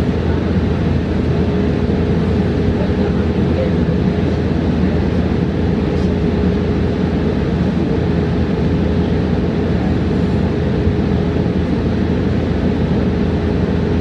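Cabin noise inside a New Flyer XE40 battery-electric bus on the move: a steady low road rumble with a single steady hum over it, and no engine.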